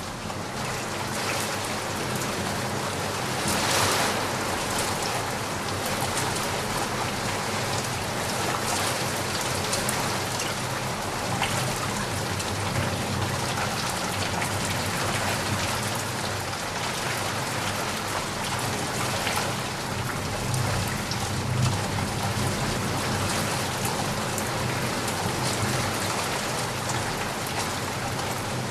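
Steady rain falling, a dense even hiss of drops, with a brief louder swell about four seconds in.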